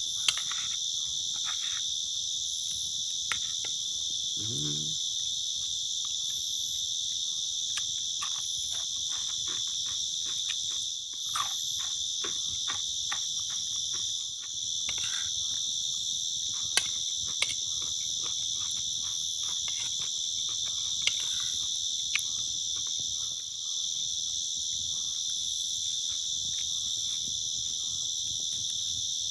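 A dense, steady high-pitched chorus of forest insects, with scattered short clicks and a brief low call about four and a half seconds in.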